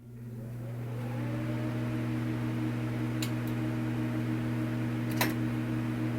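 A steady low hum that fades in over about the first second and then holds, with short clicks about three and five seconds in.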